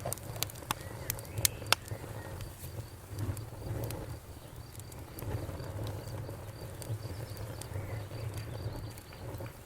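Wood fire burning in a fireplace: sharp crackles and pops, several close together in the first two seconds and sparser after, over a low steady rumble of the flames.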